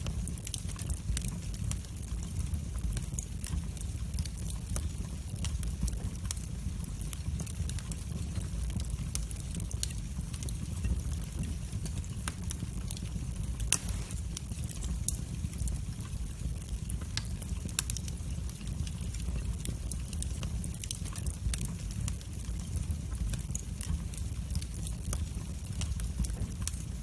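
Wood fire burning in a fireplace: a steady low rumble of flames with frequent small crackles and pops, one louder pop about halfway through.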